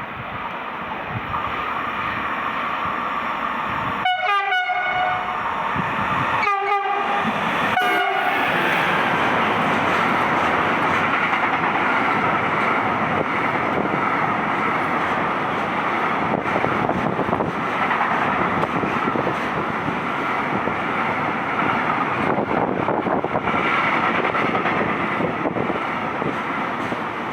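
Frecciarossa high-speed train sounding its horn in three short blasts, then passing through the station with a long, steady rush of wheel and rail noise.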